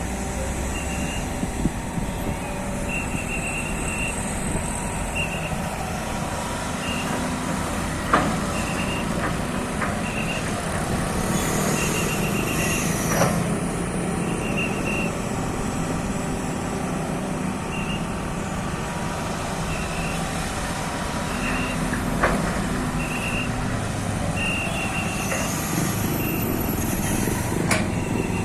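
Excavator's diesel engine running steadily, with its warning alarm sounding in short bursts of rapid high beeps every second or two, and a few sharp knocks.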